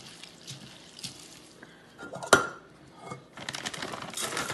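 A spoon stirring bird seed into gelatin in a mixing bowl: scattered scrapes and clicks, one sharp ringing clink of the spoon against the bowl about two seconds in, then a dense rattling crackle of seed being churned in the last second or so.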